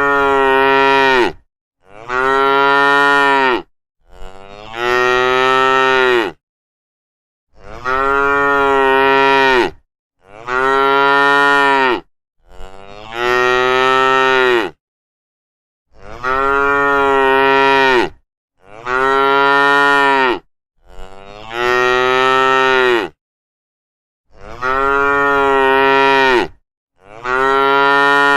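Cow mooing: about a dozen long moos, each around two seconds, coming one after another with silent gaps between them.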